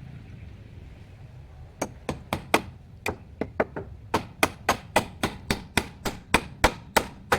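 A rapid series of sharp knocking strikes, about three to four a second, starting about two seconds in.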